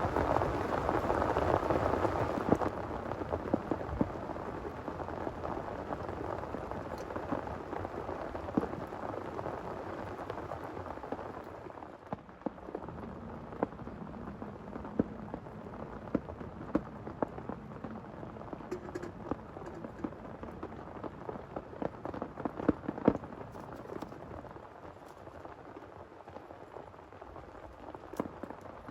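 Heavy rain falling: a dense, steady rush that eases about two seconds in and again about twelve seconds in, leaving sharper individual drops striking close by.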